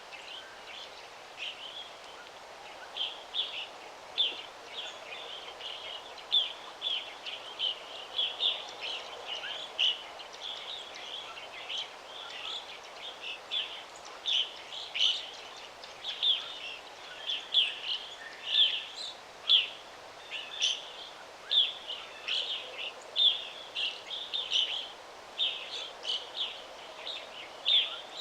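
Songbirds chirping, a steady stream of short high chirps several a second, over a soft background hiss.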